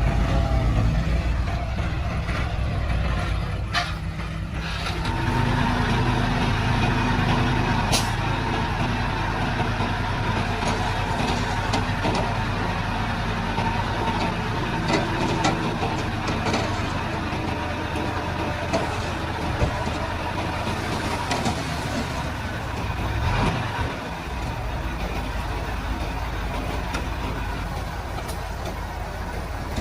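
Heavy diesel earthmoving machinery running steadily, with scattered metallic clicks and clanks and one sharp click about eight seconds in.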